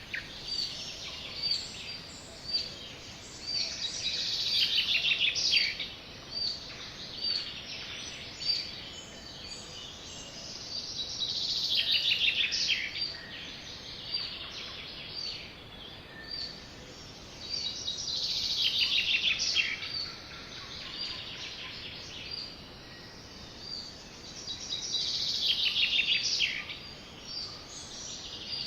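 Sparrows chirping and singing: short high chirps repeat steadily, and about every seven seconds a longer song phrase ending in a falling trill stands out, over a faint steady hiss.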